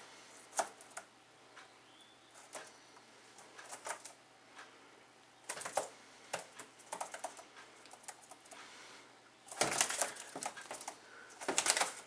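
A small bird trapped inside a window, fluttering and scrabbling against the glass and sill as it tries to get out: scattered light taps and clicks, with flurries of rapid tapping about six seconds in, again near ten seconds and just before the end.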